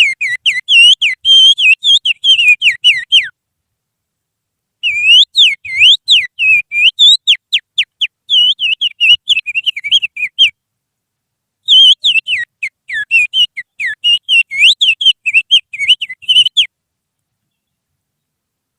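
A person whistling through the fingers in imitation of an oriental magpie-robin's (kacer) song: three long phrases of fast, sliding high whistled notes with short pauses between.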